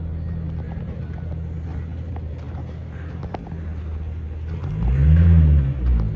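A motor vehicle engine running steadily at a low hum. About five seconds in, a vehicle engine swells loudly, rising and then falling in pitch, as a vehicle passes close by.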